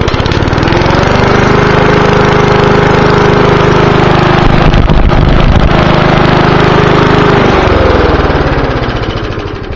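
3.5 horsepower single-cylinder lawn mower engine with a homemade exhaust stack, just started: it revs up in the first second, runs steadily at high throttle, then drops in pitch as it slows over the last two seconds.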